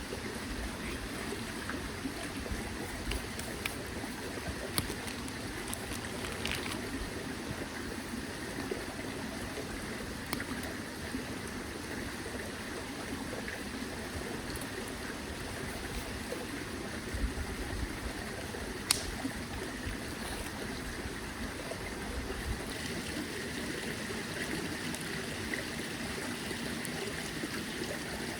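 A small mountain stream flowing and trickling steadily, with a few scattered sharp clicks over it.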